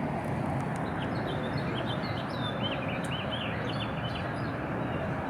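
Small birds chirping in a quick series of short, high calls for a few seconds, over a steady rumble of background noise that is the loudest thing throughout.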